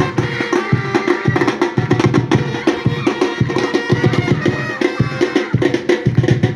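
Batucada samba percussion ensemble playing: many drums and small percussion together in a steady rhythm, with regular deep bass-drum strokes under dense, sharp hits.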